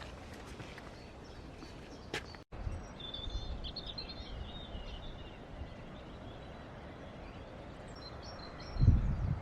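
Small birds chirping in short high calls over a steady outdoor background hiss. There is a single click about two seconds in, and low rumbling bumps near the end.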